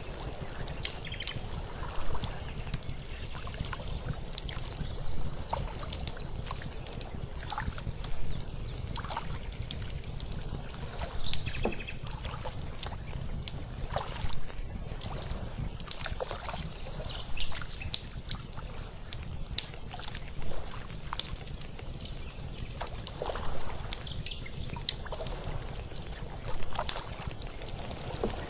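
Layered lakeside night ambience: water lapping in swells every two to three seconds over a low steady rumble, with an outdoor fire crackling in sharp pops throughout. Short high chirps come now and then.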